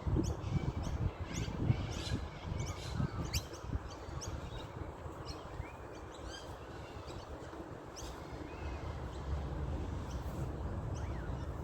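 Birds chirping in short, sharp calls, a few of them gliding in pitch, over a low, uneven rumble.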